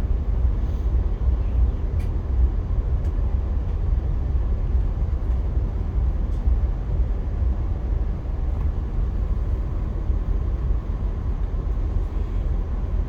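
Via Rail passenger train running along the track: a steady low rumble with a few faint clicks.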